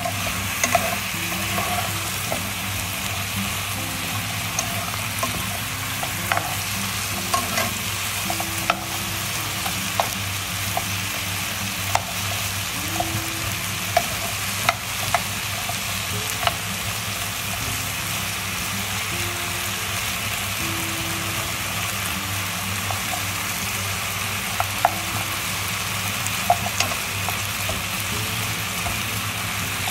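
Pig trotters sizzling in a sticky soy-sauce and oyster-sauce glaze in a steel pot over low heat. A metal spoon stirs and scrapes them, with irregular clinks against the pot every second or two.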